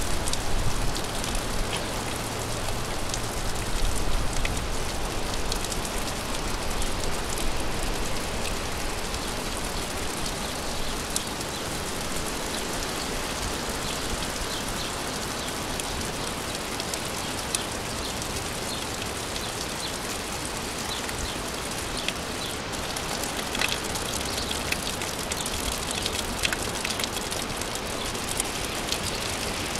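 Steady rain falling: an even hiss of rain on surfaces with scattered sharper drop ticks.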